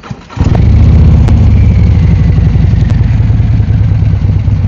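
Motorcycle engine started: it catches about half a second in and then runs steadily with a rapid, even firing pulse.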